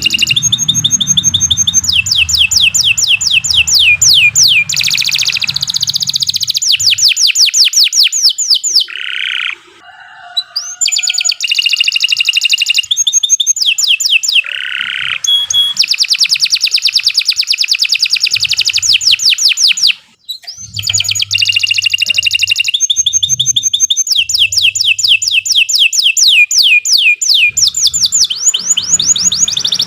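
Domestic canary singing a long, loud song made of rapid trills, one rolling phrase of fast repeated notes after another, with two short breaks.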